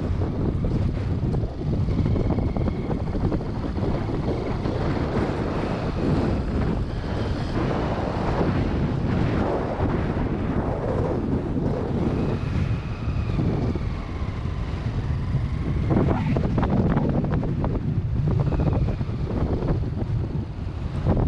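Motorcycle engine running under way, mostly buried in heavy wind buffeting on the microphone, with the engine pitch rising and falling now and then.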